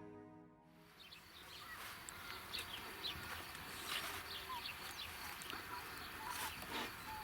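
Faint outdoor ambience of small birds chirping, with many short rising and falling calls over a light steady hiss.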